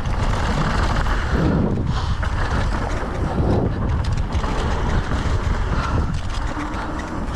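Wind buffeting the rider-mounted camera's microphone during a downhill mountain-bike run: a steady low rumble with a scatter of small rattling ticks from the bike on the trail.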